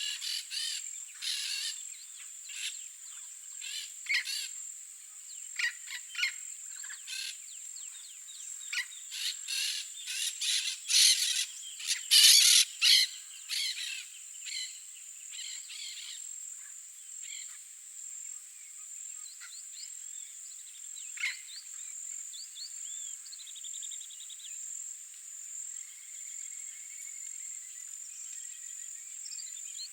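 Yellow-faced parrots giving harsh, short, repeated calls, busiest and loudest about twelve seconds in, then thinning out. Other small birds chirp and trill in the second half. A steady high-pitched insect buzz runs under it all.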